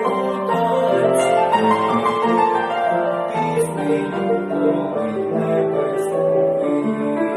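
Instrumental music: a keyboard instrument that sounds like a piano plays a melody over chords at a steady level.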